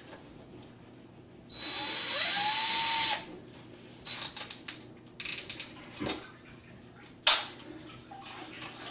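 A power drill runs for about a second and a half, its whine rising as it spins up. Then come a string of short clicks and rattles and a couple of sharp knocks as the drill and bit are handled.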